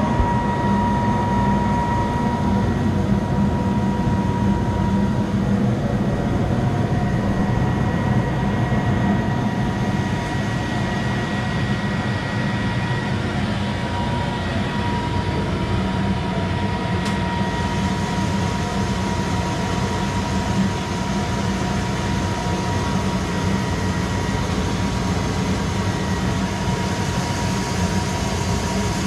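Monarch 10EE lathe running steadily, a low machine hum with a thin, steady whine over it.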